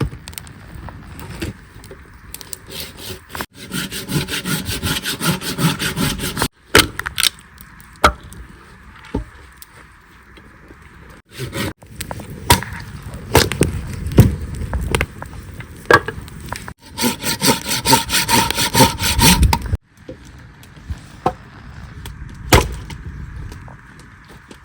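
A hand saw cutting wood in fast, even back-and-forth strokes, in two separate bouts. Sharp knocks and snaps of wood come between the bouts.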